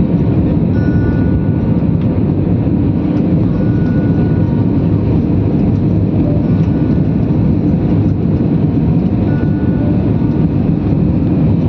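Airplane engine noise, a loud steady rumble with a faint higher tone that comes and goes every few seconds.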